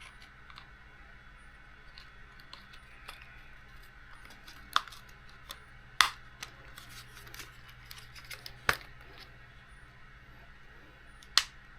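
Small RC car parts being handled and fitted by hand: faint scattered ticks and taps of plastic and metal, with four sharper clicks spread through, as a plate is set onto the car's front end.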